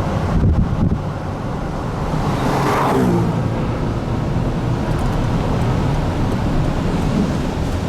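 Strong wind rumbling on the microphone, with a vehicle passing about two and a half to three seconds in, its pitch falling as it goes by.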